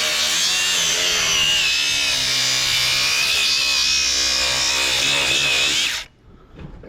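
Power cutting tool running steadily with a high whine as it cuts through an electric motor to free the copper windings, then stopping about six seconds in.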